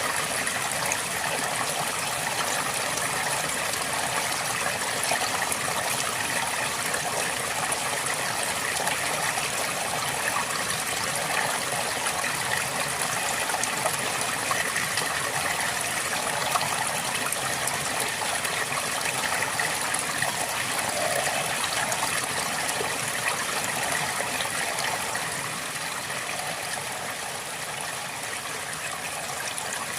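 River water flowing steadily, a continuous rush and babble with no pauses, dipping a little in level near the end.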